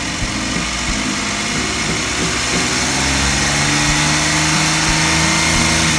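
Car engine running at idle with a steady hissing whir, still short of operating temperature; its pitch rises a little in the second half.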